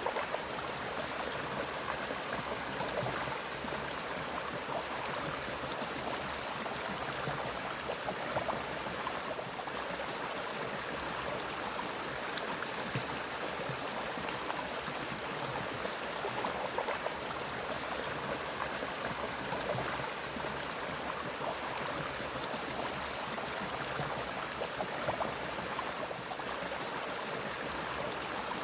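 Forest stream flowing, a steady rush and gurgle of water, over a steady high-pitched tone.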